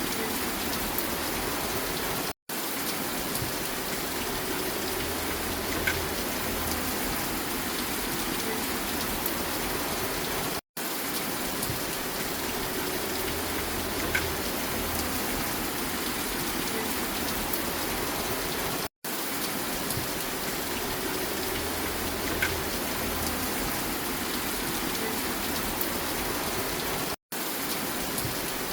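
Steady rain with scattered drop ticks, a short recording looped so that it drops out to silence for a split second about every eight seconds.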